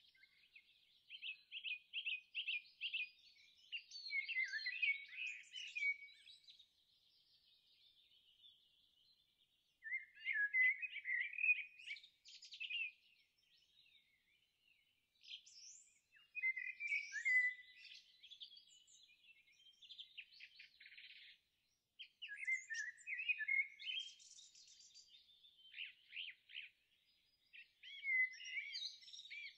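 Birds singing, phrases of chirps and trills coming in bursts of a few seconds with short pauses between them.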